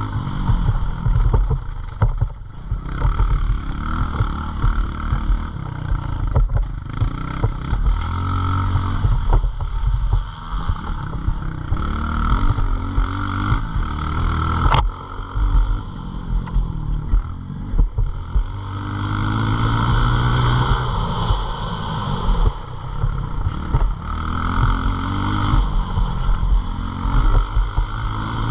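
Pit bike engine running hard, its pitch climbing again and again as it revs up through the gears, over a heavy low rumble. There is one sharp click about halfway through.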